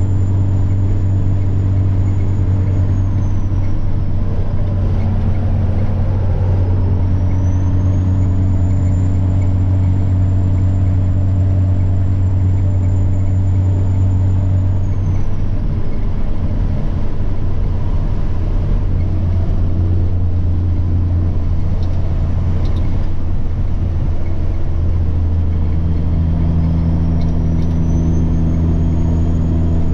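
Semi truck's diesel engine running with a steady drone and a thin, high turbo whine. The whine falls away twice and climbs back each time, and the engine note changes with it.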